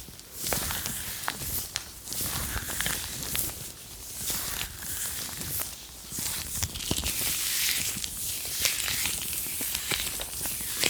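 ASMR gloves rubbed and crinkled close to the microphone: a steady rustling crinkle with many sharp clicks.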